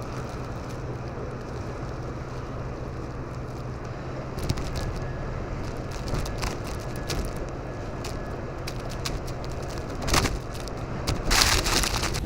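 Blizzard wind rushing and buffeting the microphone over a steady low hum, with scattered crackling ticks; a strong gust hits about ten seconds in and a longer, louder one near the end.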